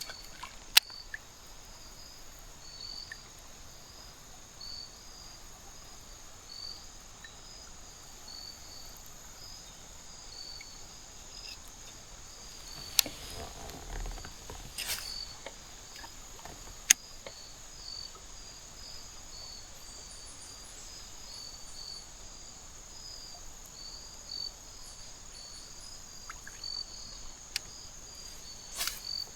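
Crickets chirping in a steady, even rhythm of a little more than one chirp a second over a continuous high insect buzz. A few sharp clicks cut through, the loudest about 1, 13 and 17 seconds in.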